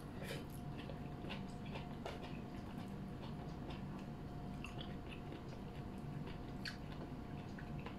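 A person chewing soft, wet bulalo beef and tendon with the mouth open, giving many small scattered smacks and clicks over a faint steady hum.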